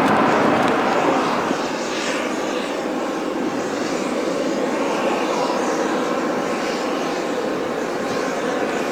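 Landing airliner's engines, louder in the first second and a half, then settling to a steady level, with wind buffeting the microphone.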